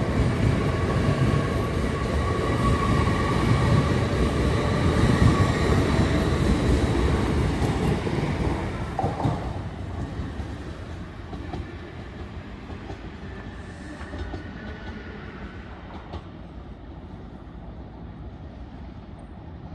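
An LNER Class 801 Azuma electric train running past, wheels rumbling over the rails with a steady whine, loud for about eight seconds and then fading away as it draws off.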